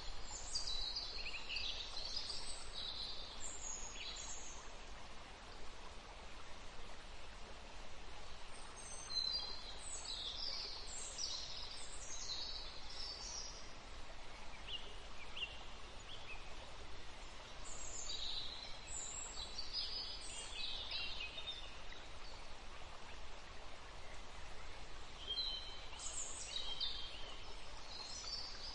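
Small birds chirping and singing in short groups of calls every several seconds, over a steady background hiss.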